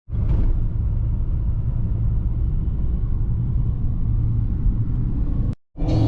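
Vehicle on the move: a steady low rumble of engine and road noise. It cuts out abruptly for a moment about five and a half seconds in, then resumes.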